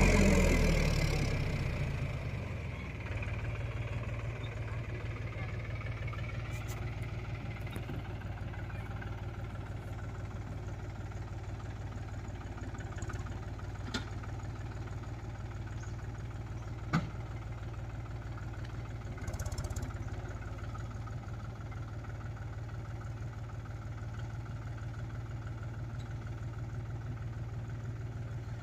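Mahindra tractor's diesel engine dropping from higher revs over the first couple of seconds, then idling steadily with an even low throb. A few short sharp clicks sound over it.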